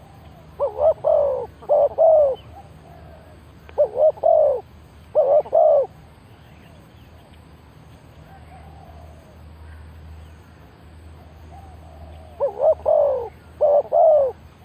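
Dove cooing: three loud phrases of several short coos each, one near the start, one about four seconds in and one near the end, with fainter cooing between them.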